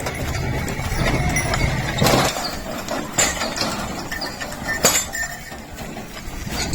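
Bullock cart on the move: hooves clopping and the cart knocking and clinking irregularly.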